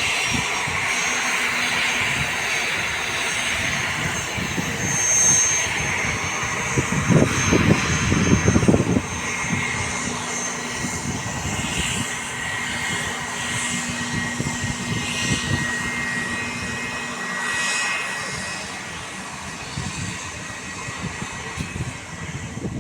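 Airplane engines running: a steady hiss with thin high whining tones, a louder rumbling stretch about seven to nine seconds in, and the sound easing off toward the end.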